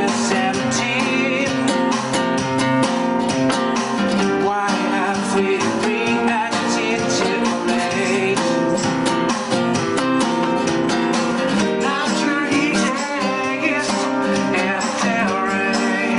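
Acoustic guitar music with a steady strummed rhythm, with singing over it in places.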